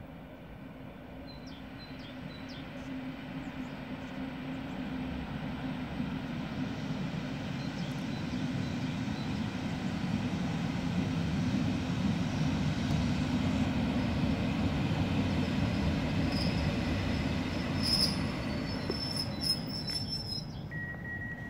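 A train approaching and running past, its rumble growing louder over about twelve seconds and then holding. High-pitched wheel squeal comes in near the end.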